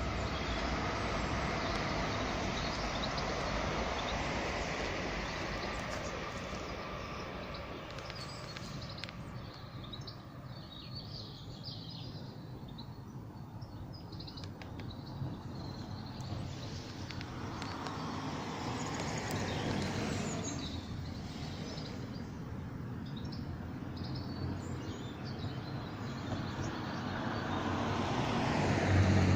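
Road traffic: vehicles passing one after another, each swelling and fading, with the loudest pass near the end. Small birds chirp in the quieter stretch between them.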